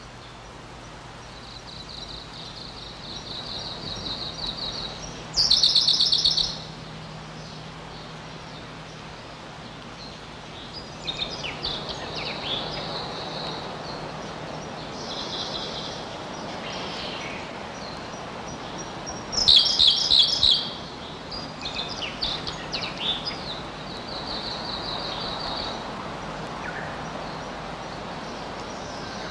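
Birds chirping and trilling in repeated high phrases, with two loud, harsh calls about six seconds in and again about twenty seconds in.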